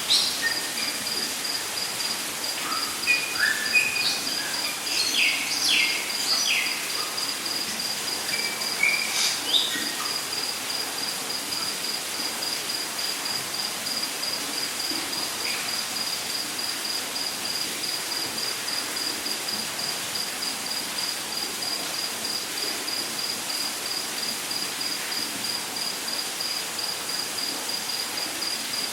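Rainforest ambience: an insect trilling steadily at one high pitch in fast, even pulses over a constant hiss, with several short bird chirps and whistles during the first ten seconds or so.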